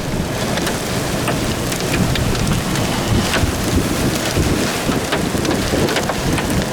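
Heavy rain pelting a vehicle, a dense steady patter with many sharp individual drop impacts.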